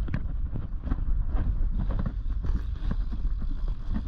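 Wind buffeting the microphone over a steady low rumble, with many small clicks and knocks, as from a dirt jump bicycle being ridden over dirt.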